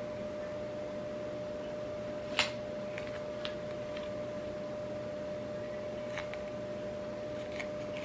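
A few short, sharp clicks, one louder about two and a half seconds in, over a steady faint hum.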